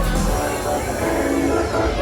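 Live band playing amplified music through the stage PA during a sound check, with held notes over a steady low end.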